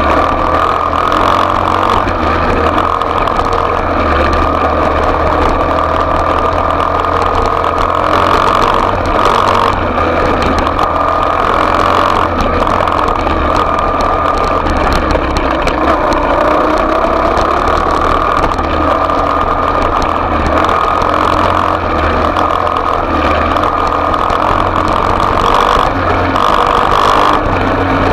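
Small off-road motorbike engine running, its pitch rising and falling slightly as the throttle changes.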